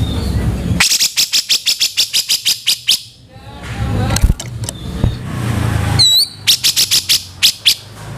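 Grey-cheeked bulbul (cucak jenggot) giving harsh, rapid chattering calls, about five notes a second, in two bursts: one about a second in and one near the end, the second opening with a single upward-hooked note. A steady low hum runs underneath.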